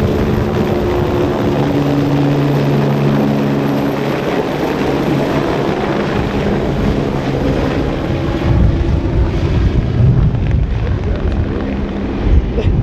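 Agusta A109E Power twin-turbine helicopter after takeoff, its turbine whine and rotor noise fading as it moves away. Wind buffets the microphone in the last few seconds.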